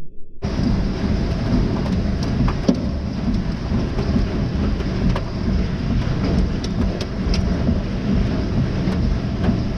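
Heavy rain and hail pelting a car, a dense steady noise with a low rumble and many sharp ticks of impacts, starting abruptly about half a second in.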